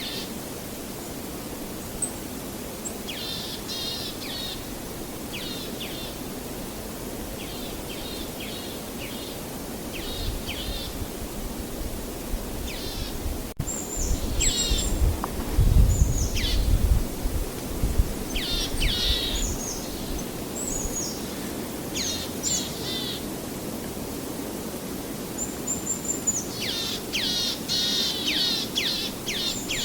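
Songbirds chirping in repeated short phrases of quick falling notes over a steady low outdoor rush. A loud low rumble rises about halfway through for a few seconds.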